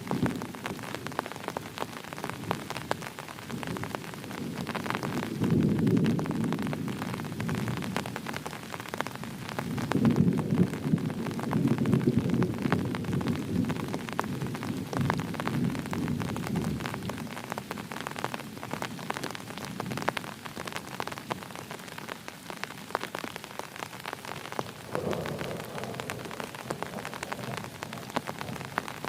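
Heavy rain falling steadily, with many individual drop hits. Thunder rumbles three times: briefly about five seconds in, longer and louder from about ten seconds in, and faintly near the end.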